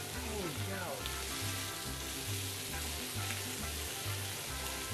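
Steady sizzle of bacon-wrapped hot dogs frying on a hot cast iron flat top, with sliced bell peppers and onions frying in a cast iron skillet beside them.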